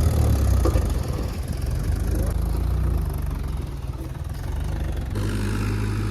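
Tractor diesel engine running steadily with a low hum; about five seconds in the engine sound changes abruptly to a slightly different steady note.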